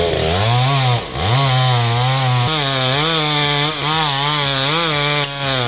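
Chainsaw engine running at high revs while cutting into a tree trunk. Its pitch drops sharply about a second in, then holds with a repeated wavering rise and fall as the chain works through the wood.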